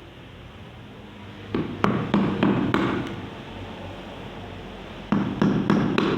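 Two runs of sharp knocks or taps, about five in each, the first about a second and a half in and the second about five seconds in: tools working pieces of bamboo.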